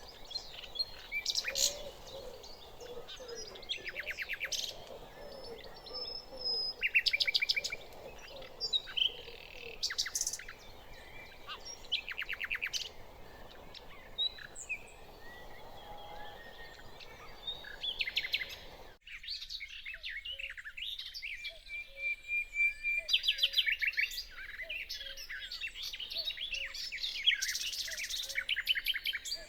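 Common nightingale singing in separate phrases: bursts of rapid repeated notes and trills with short pauses between them. About two-thirds of the way through, the recording changes abruptly and the low background hiss drops away.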